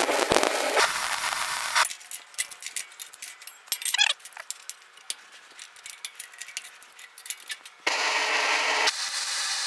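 Metalwork on a steel welding table. A steady hiss-like noise cuts off abruptly, then come scattered clinks, clicks and a brief squeak of steel parts and tools being handled, and then the steady noise starts abruptly again near the end.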